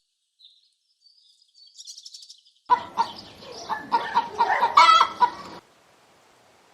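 Chicken clucking loudly in a quick run of calls for about three seconds, after a couple of seconds of faint high chirps; it cuts off suddenly near the end.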